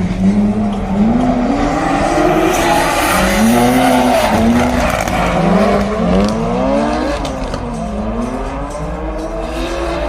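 Sports car engine revving hard, its pitch climbing and dropping over and over about once a second.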